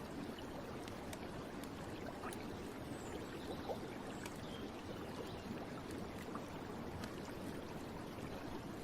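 Steady flow of a gentle stream, with faint scattered ticks of water.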